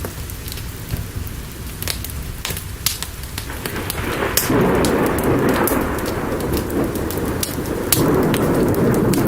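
Steady rain with a crackling fire, sharp pops scattered throughout. About four seconds in, a roll of thunder swells up, grows louder and keeps rumbling.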